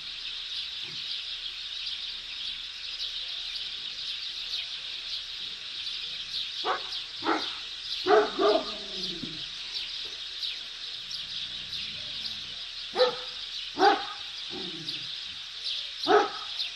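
Dogs barking in short, separate barks, a few at a time with pauses between, over a steady high chirping in the background.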